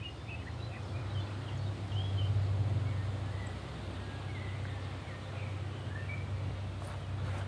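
Birds calling in short chirps and whistles over a steady low rumble that swells about two seconds in and then eases off.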